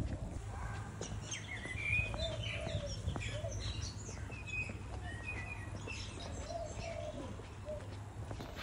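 Several birds chirping and calling: short high chirps over lower, curving calls, against a steady low background hum.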